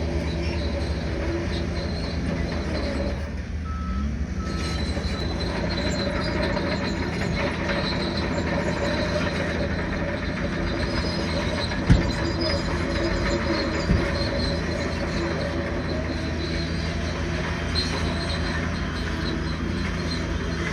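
Crawler bulldozer working: its diesel engine runs steadily under load while the steel tracks clank and squeal. Two sharp knocks come about twelve and fourteen seconds in, the louder one first.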